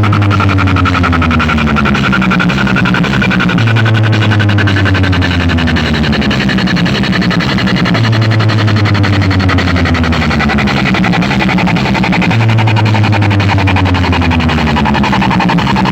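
Electronic DJ competition remix played very loud over large DJ box speaker setups. A long, deep bass note with falling glides above it repeats about every four seconds.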